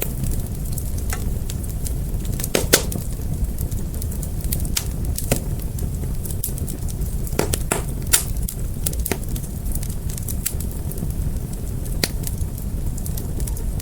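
Fire crackling, with irregular sharp pops and snaps over a steady low rumble of the flames; a few louder pops stand out, one near the start and two around the middle.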